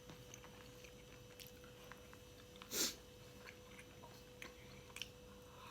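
A person chewing pork close to the microphone, quiet, with small scattered mouth clicks and one brief louder noise a little under three seconds in. A faint steady hum runs underneath.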